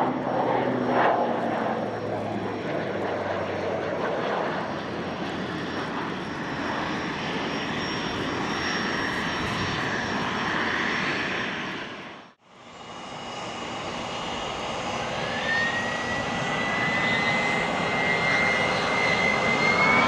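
Beechcraft King Air 360 twin-turboprop engines during its landing, cutting out about twelve seconds in. Then a Gulfstream G450 business jet approaches, its engine whine rising in pitch and growing louder toward the end.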